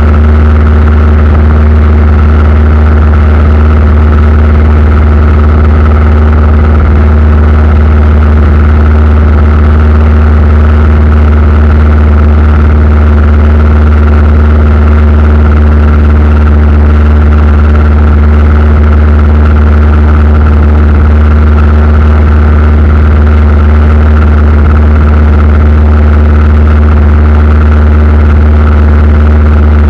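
Aircraft engines running with a steady, loud drone and a deep hum that holds unchanged throughout.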